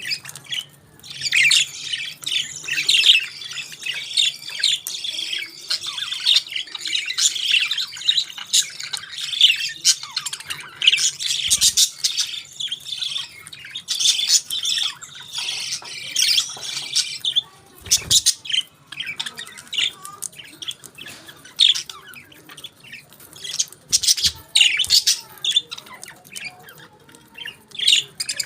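Budgerigars chattering: a dense run of rapid, high chirps and squawks with brief lulls. A few soft thumps come through in the second half.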